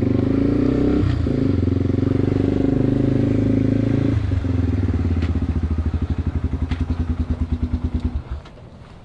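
Yamaha TW200's single-cylinder four-stroke engine running at low revs with an even pulse, the pitch shifting slightly about one and four seconds in, then cutting out suddenly about eight seconds in.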